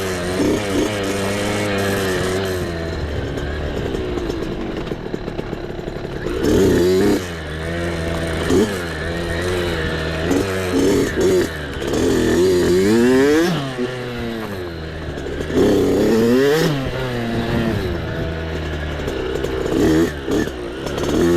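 Small dirt bike engine being ridden hard, revved up and down over and over as the throttle is opened and shut, its pitch climbing and dropping every second or two.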